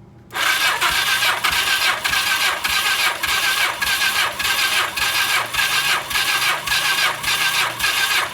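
1982 Suzuki GS1100's four-cylinder engine cranked over by its electric starter for a compression test, pulsing about three times a second, without firing. The cranking starts about half a second in. The cylinder under test builds to about 150 psi, a good reading.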